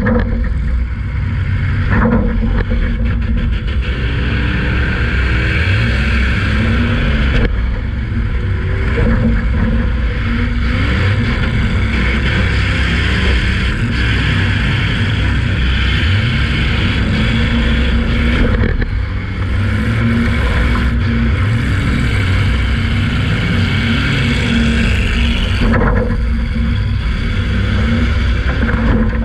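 Demolition derby car's engine running hard and revving, heard loud from inside the cabin, with a few sharp knocks from hits along the way.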